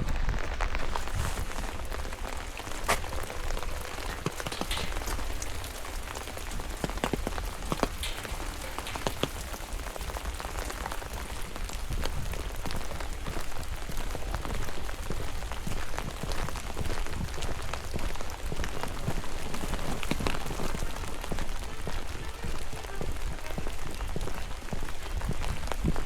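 Steady rain falling in a forest, with scattered sharp ticks of single drops landing close by over a low rumble.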